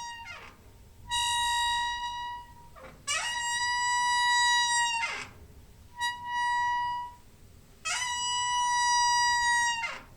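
Door hinge squeaking: a series of long, high, steady squeaks, four of them lasting about one to two seconds each with short gaps between, each ending in a quick downward slide in pitch. The tail of an earlier squeak fades out just at the start.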